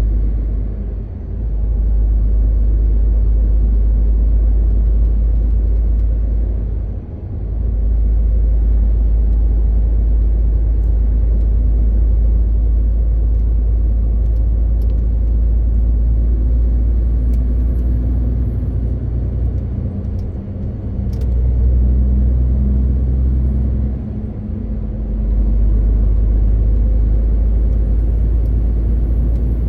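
MAN TGX 18.520 truck's 12.4-litre straight-six diesel engine and drivetrain, a loud, steady low drone while driving. It drops away briefly four times, and faint high whistles rise and fall in the second half.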